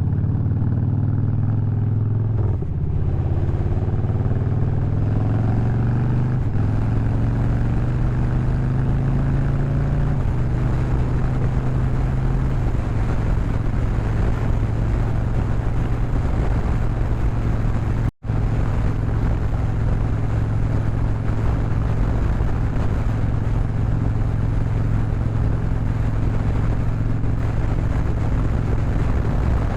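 Harley-Davidson Low Rider's V-twin engine and exhaust under way, with wind noise; the engine note changes pitch several times in the first dozen seconds, then holds steady at cruising speed. The sound cuts out for an instant a little past halfway.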